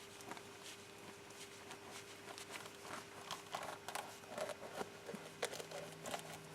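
Faint scraping and irregular clicking of a tire plug kit's spiral reamer being worked into a tire's puncture hole to rough it up for the plug, over a faint steady hum.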